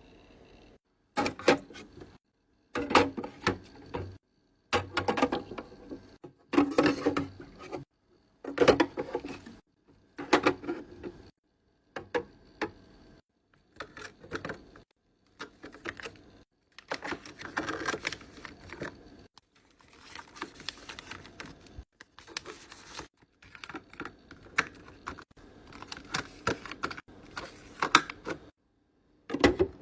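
Clicks, taps and light clatter of small skincare bottles and jars being handled and set down, in a string of short clips with sudden silent cuts between them.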